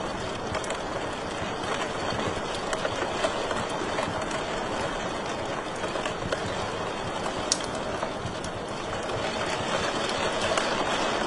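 Wood fire crackling in a fireplace: a steady hiss full of small irregular pops, with one sharper pop about seven and a half seconds in.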